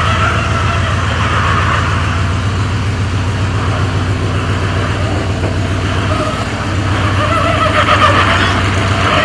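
1982 Jeep CJ7's engine running steadily, dipping briefly about six and a half seconds in and then growing louder near the end.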